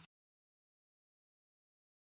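Silence: the soundtrack is completely empty after the tail of a spoken line cuts off at the very start.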